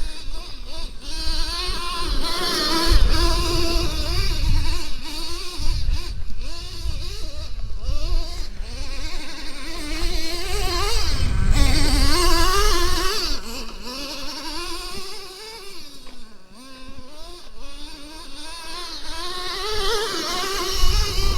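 Traxxas T-Maxx 3.3 RC monster truck's small two-stroke nitro engine running hard, its pitch rising and falling over and over as the throttle is worked, with bursts of low rumble now and then.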